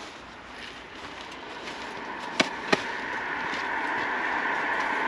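Wind and road noise from a moving motorcycle, a steady hiss that grows louder as it picks up speed, with two sharp clicks a little past the middle.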